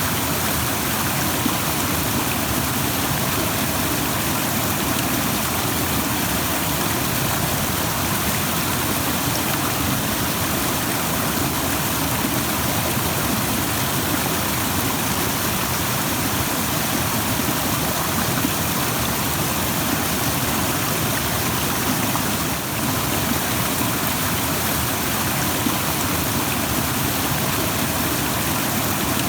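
Stream rushing: a steady, dense wash of water noise with no change in level.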